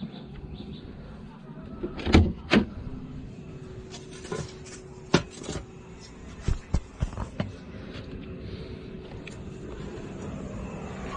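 Electric kettle heating water on inverter power: a steady low hum that grows slightly louder, with scattered clicks and knocks.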